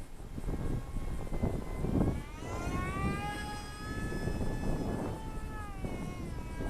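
Small 1104-size brushless motor and 3-inch two-blade propeller of an RC foam glider whining in flight. Its pitch rises about two seconds in, holds, and falls away near the end, with wind noise underneath.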